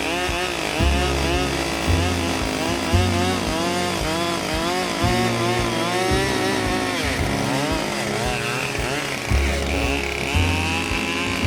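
Chainsaw running and cutting through logs, its pitch rising and falling again and again.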